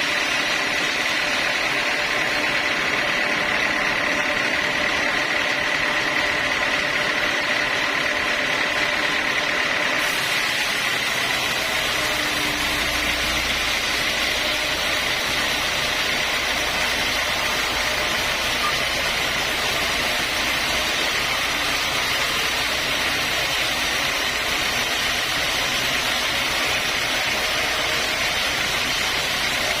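Sawmill saw cutting mahogany logs, running steadily with a high whine. About ten seconds in, the sound fills out and a deeper hum joins.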